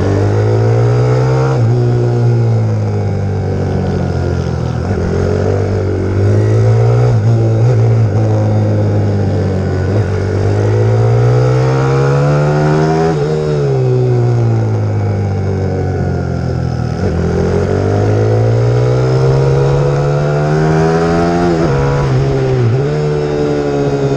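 YX150 pit bike's single-cylinder four-stroke engine being ridden hard, its pitch climbing under throttle and dropping off again several times, with two long climbs and a few sharp drops as the throttle is chopped.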